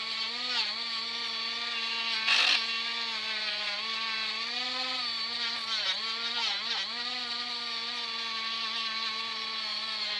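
Parkside cordless multi-grinder (rotary tool) running with a fibre polishing wheel, buffing a silver ring coated in Brasso. The steady motor whine sags briefly in pitch several times as the wheel is loaded against the work, with a short louder scuffing burst about two and a half seconds in.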